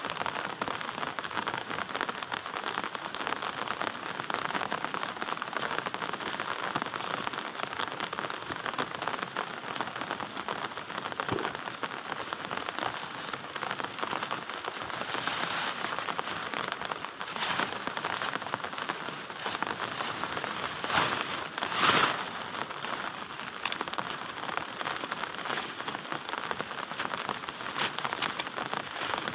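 Heavy rain falling steadily, a dense continuous patter of drops, with a couple of louder splashing hits about three-quarters of the way through.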